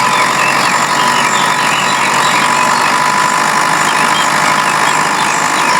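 DIY mini tractor running steadily: a continuous motor drone with a steady high whine.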